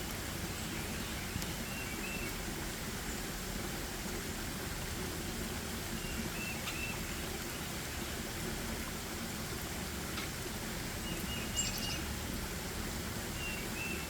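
Steady outdoor background noise with short, high bird chirps every few seconds, including a quick trill a little before the end.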